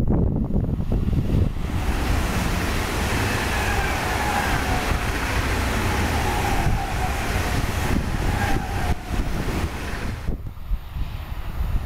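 A train passing close by, a heavy steady rumble with a whine that slowly falls in pitch as it goes past, easing off near the end. Wind on the microphone adds to the noise.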